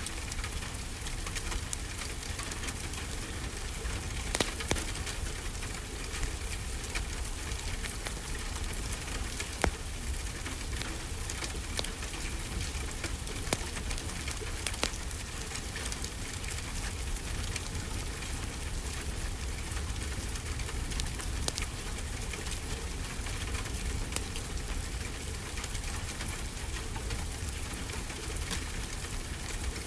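Steady rainfall hiss mixed with a wood fire crackling, its sharp pops and snaps scattered irregularly over the rain, with a low steady rumble underneath.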